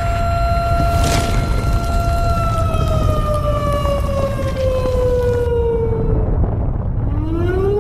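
Siren holding a steady wail, then slowly winding down in pitch, dipping away, and rising again near the end: the alarm signalling the start of an earthquake drill. A low rumbling noise runs underneath.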